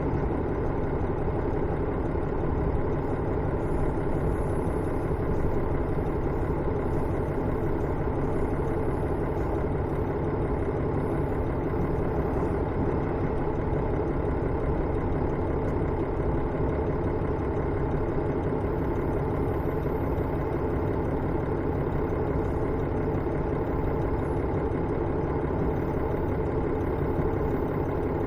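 Interior running sound of a KiHa 110 series diesel railcar travelling between stations: its diesel engine and the wheels on the rails make a steady rumble that holds even throughout.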